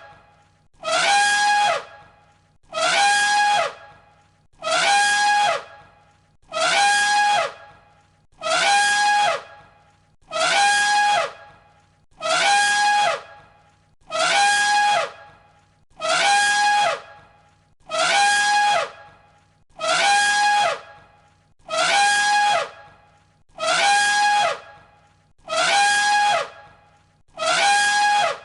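Elephant trumpeting, one identical call looped over and over about every two seconds. Each call is a high, brassy blast held on one pitch for about a second, then dropping away at the end.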